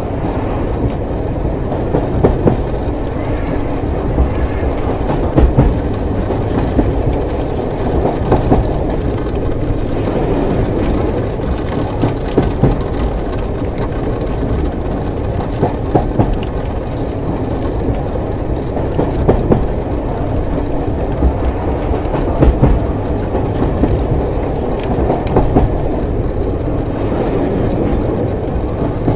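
Train running on rails: a steady low rumble, with short knocks from the wheels every few seconds.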